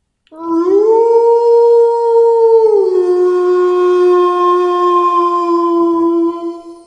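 A wolf howling: one long howl that rises in pitch at the start, holds, drops to a lower pitch a little before halfway and holds there until it fades near the end.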